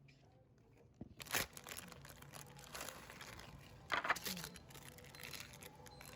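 Rustling and crinkling handling noise, with two louder bursts about a second in and about four seconds in.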